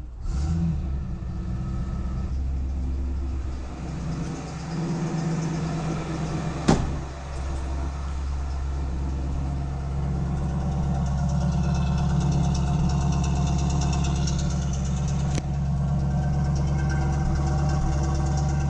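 1965 Ford Mustang's 289 V8 idling steadily on a cold start after six months of sitting, a little louder in the second half. A sharp knock cuts through about six and a half seconds in, and a fainter one about fifteen seconds in.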